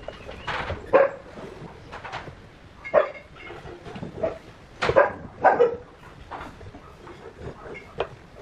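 A dog barking in short, separate barks at irregular intervals, the loudest about a second in and twice around five seconds in.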